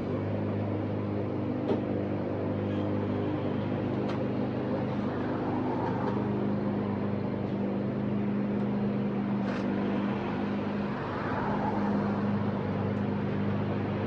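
An engine running steadily, a low hum holding one pitch, with a few faint clicks over it.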